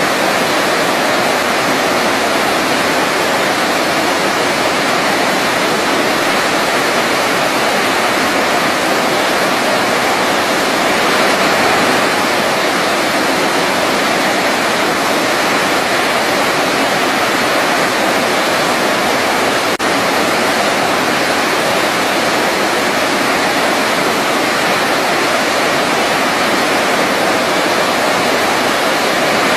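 Waterfall rushing steadily, an even, unbroken noise of falling water with no change in level.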